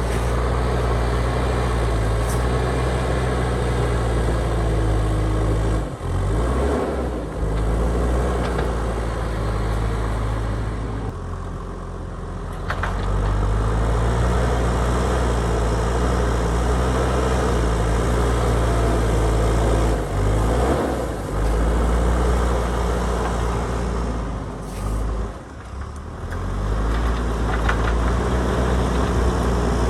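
JCB backhoe loader's diesel engine running under load, its revs dropping and picking up again several times: near 6 s, around 11 to 13 s, near 21 s and near 25 s.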